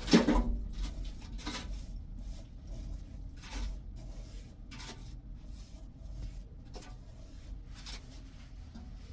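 Irregular knocks and clatters of objects being handled, about half a dozen over several seconds, the loudest right at the start, over a steady low rumble.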